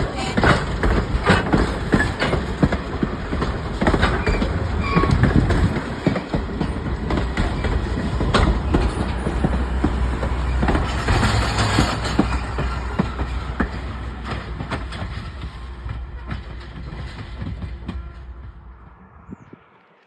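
Train rolling past, a steady rumble with wheels clicking over rail joints, and the odd squeal of wheel on rail. The sound fades away over the last several seconds as the train moves off.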